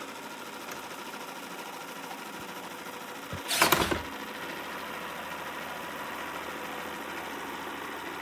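Shark robot vacuum-mop running with a steady motor hum, with one loud noisy burst about three and a half seconds in. The hum cuts off suddenly at the end as the robot stops with a stuck-drive-wheel error.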